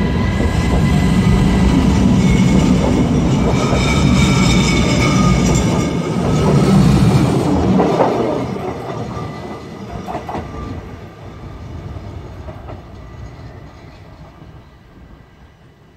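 ODEG electric multiple unit pulling out past the platform: its wheels rumble on the rails under a steady electric whine from its traction equipment. About halfway through the sound begins to fade, and it grows faint as the train draws away.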